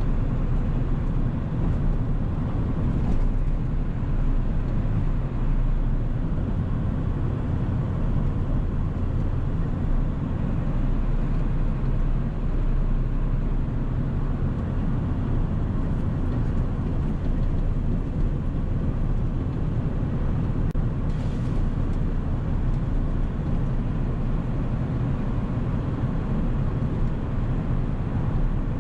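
Ford 7.3-litre Powerstroke turbo-diesel V8 running steadily as the truck cruises, with a low drone and road noise.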